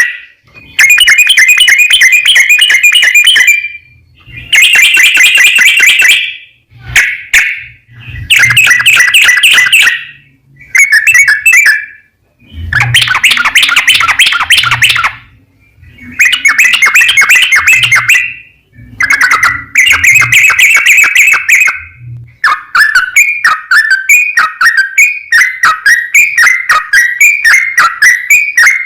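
Yellow-vented bulbul (trucukan) singing loudly in long rapid chattering phrases of two to three seconds each, with short pauses between them. Near the end it switches to an unbroken run of quick, repeated falling notes.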